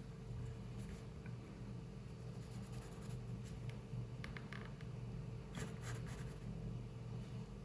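Drawing strokes scratching lightly on paper, with a few faint clicks, over a steady low hum in the room.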